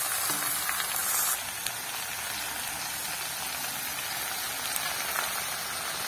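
Hot oil sizzling in a karahi as freshly added chunks of bottle gourd fry in a cumin, bay leaf and dried-chilli tempering. The hiss is brighter for about the first second and a half, then settles to a steady, softer sizzle.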